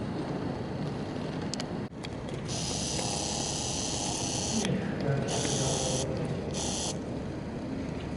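Strong wind buffeting the microphone, with three bursts of high hissing or screeching, the first about two seconds long, the last two shorter, from the railway or construction equipment.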